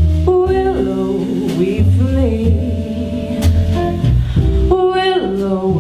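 A woman singing a slow jazz ballad, holding and bending long notes, over guitar and bass accompaniment.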